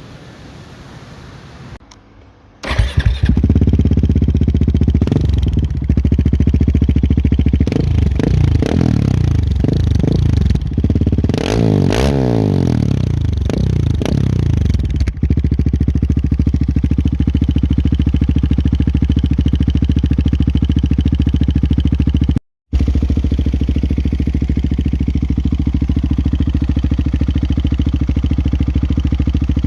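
KTM 690 SMC R's single-cylinder engine breathing through a Wings aftermarket exhaust: it starts a few seconds in, is blipped through a run of throttle revs that climb and drop, then settles into a steady, loud idle.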